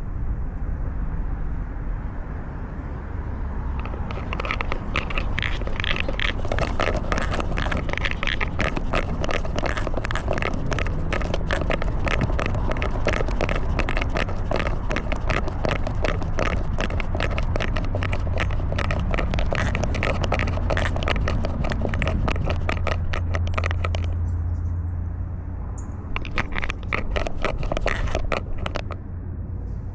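Rapid, dense crackling and scraping picked up close by a cat's collar camera as the cat moves, starting about four seconds in, easing off a few seconds before the end and briefly returning, over a steady low rumble.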